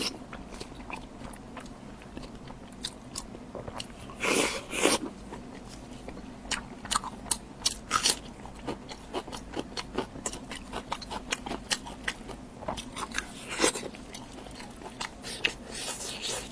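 Close-miked eating of meat: a string of sharp wet mouth clicks from chewing, with louder crunchy bites about four to five seconds in and again near the end.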